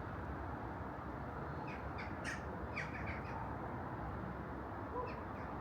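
Birds calling outdoors: a quick run of short, sharp calls about two seconds in and one more near the end, over a steady low background rumble.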